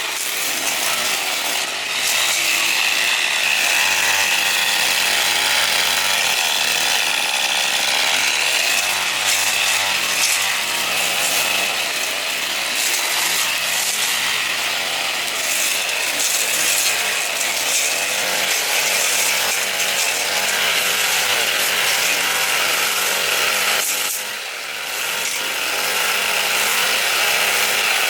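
A power tool running steadily under load, with a brief easing about 24 seconds in.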